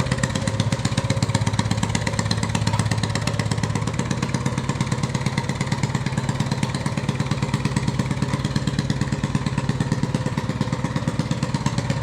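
Small engine-swapped moped engine running steadily, a fast even stream of firing pulses with no revving.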